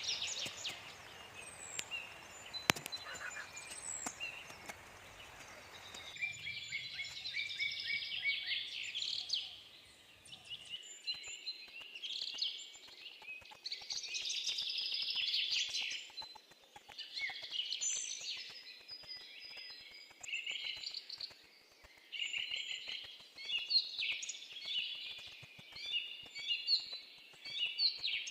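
Several small birds chirping and singing in quick repeated phrases, with brief pauses between bursts, and a single sharp click a few seconds in.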